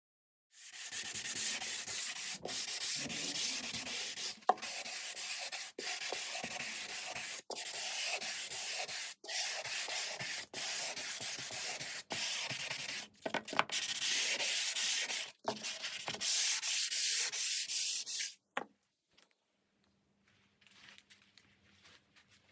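Sandpaper rubbing on oak: a loud, continuous scratchy hiss broken by brief gaps every second or two. It stops about eighteen seconds in, leaving only a faint low hum.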